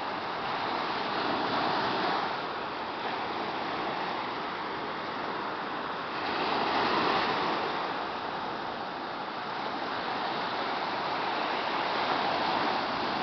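Sea surf on the shore: a steady wash of waves, swelling as a wave breaks about every five seconds, three times.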